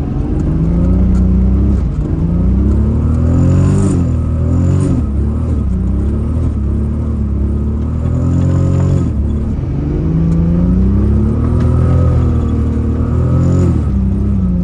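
Toyota Supra MK4's turbocharged 2JZ inline-six engine accelerating hard and easing off again and again, its pitch climbing and falling in several waves, with sharp drops about four and nine seconds in.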